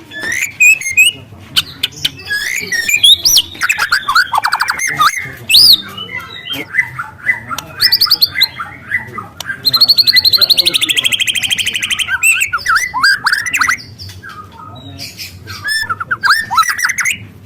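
A juvenile white-rumped shama singing: varied whistles and quick chattering notes. About ten seconds in comes a long, fast, canary-like trill of about two seconds that falls slightly in pitch.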